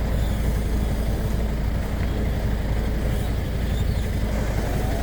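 Truck engine running steadily, a constant low rumble with no change in speed.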